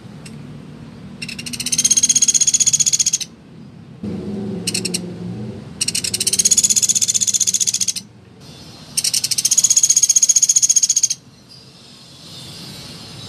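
A pelatuk beras woodpecker giving loud, very rapid rattling trill calls: three long trills of about two seconds each and one short burst, with pauses between them.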